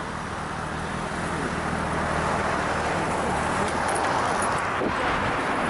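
Motorcycle engine running steadily, under a rushing road and wind noise that swells over the second half.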